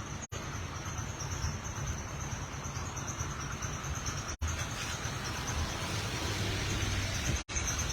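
Outdoor street ambience: a steady high insect-like chirring over a low rumble of traffic, broken by three brief dropouts in the audio stream.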